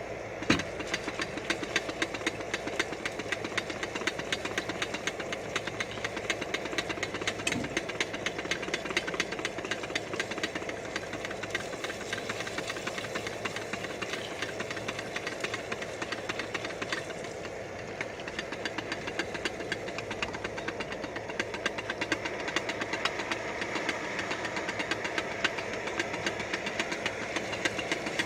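MSR Pocket Rocket canister stove burner running steadily under a steel canteen cup, with oil sizzling and crackling in the cup as microwave popcorn heats, not yet popping. There is a single sharper knock about half a second in.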